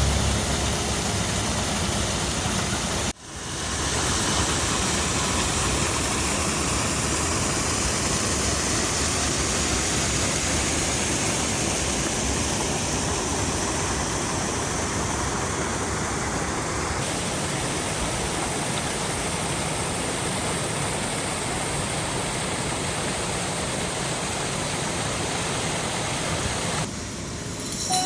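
Rushing water from a creek and its falls: a steady, even rush of flowing and falling water, broken by a brief drop about three seconds in and changing slightly in tone twice later on.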